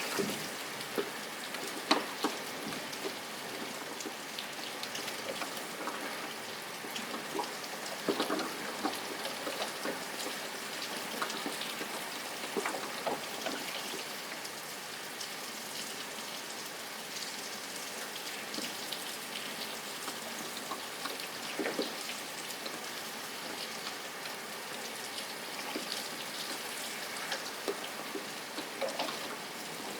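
Steady rain falling, an even hiss dotted with many individual drops striking a surface, a few sharper drops standing out about two and eight seconds in.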